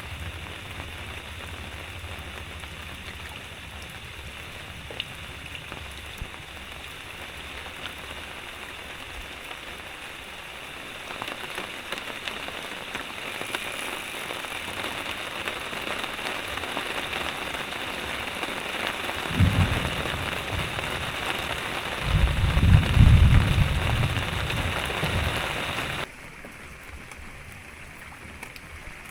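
Heavy rain pattering steadily on surfaces, growing heavier about a third of the way in. Two low rumbles come in the second half, and the rain drops off suddenly near the end.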